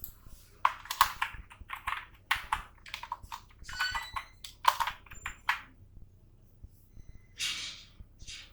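Typing on a computer keyboard: a run of quick, irregular key clicks, followed by two short swishing noises near the end.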